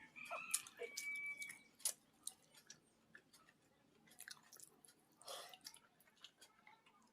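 Close-up mouth sounds of a person eating pokhalo (watered rice) with fried vegetables: chewing with scattered small wet clicks and smacks, and a brief noisy burst about five seconds in.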